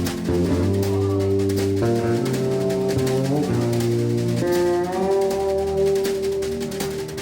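Live jazz band playing a slow groove: a lead melody of long held notes that slide between pitches, over electric bass, keyboards and a steady drum pattern.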